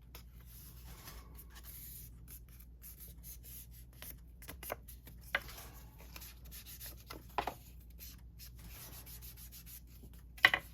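Paper being handled and rubbed down by hand: soft rustling and scraping, with a few brief sharp crackles, the loudest just before the end.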